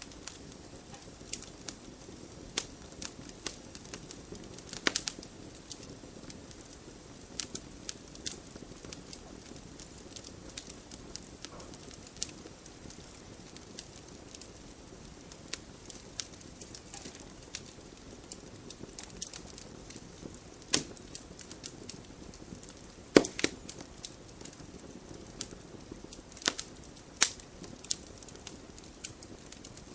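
Wood fire burning in a fireplace: a steady low hiss of the flames with irregular sharp crackles and pops, a few louder snaps standing out.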